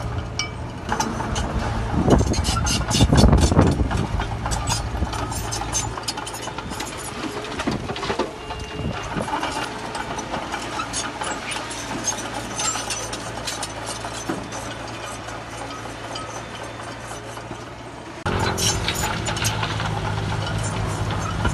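Diesel engines of heavy earthmoving machinery running, with frequent clanks and rattles from the working equipment and a louder surge about two to four seconds in. The sound changes abruptly about eighteen seconds in.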